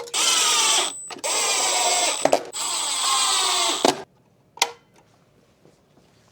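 Cordless electric screwdriver or drill running in three short bursts, its pitch dropping in each as it drives screws into the headlight housing. A single click follows.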